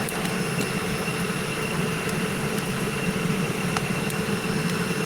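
Steady drone of a forge's air blower running, with a few faint scattered crackles from the burning coals.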